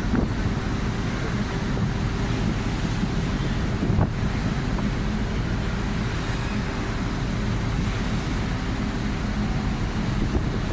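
Strong wind buffeting the microphone over rushing, breaking sea in a storm, with a steady low hum underneath. A brief thump stands out about four seconds in.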